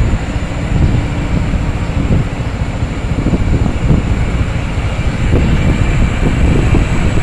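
Fuel tanker truck's engine and drivetrain giving a steady low rumble on a downhill run, with wind buffeting the microphone.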